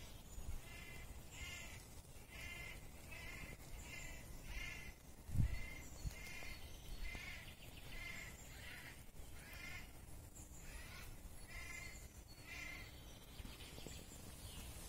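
A bird calling over and over, a short pitched call repeated a little more than once a second, stopping shortly before the end. One low thump about five seconds in.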